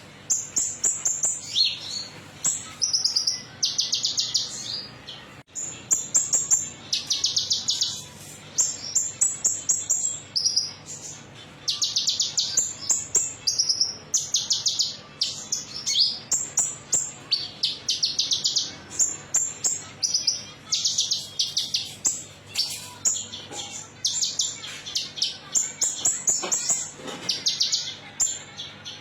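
Olive-backed sunbird (kolibri ninja) singing: high, fast ticking trills, each under a second long, repeated one after another with short pauses. This is a lure song, played to get captive birds to sing.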